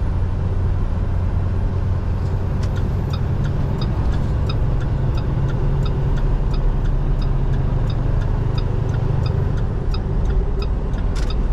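Semi truck's diesel engine pulling steadily in gear, heard from inside the cab. A light, regular ticking, about two to three ticks a second, runs over it from a couple of seconds in until near the end.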